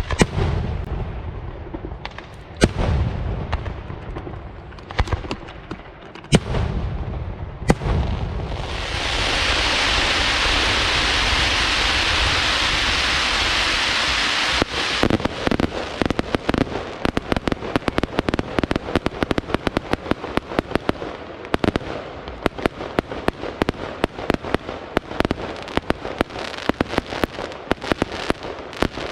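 Aerial fireworks display: a handful of separate booming bangs spaced a second or two apart. Then a steady loud hiss for about six seconds, and about halfway through a rapid, unbroken run of sharp cracks and pops.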